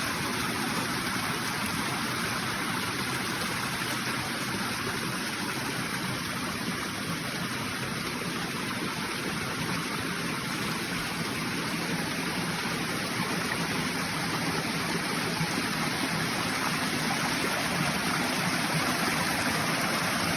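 Steady sound of flowing water from a stream, even and unbroken.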